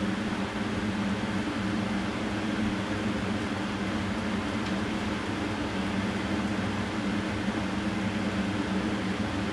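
Electric fan running steadily, a constant low hum with airy hiss.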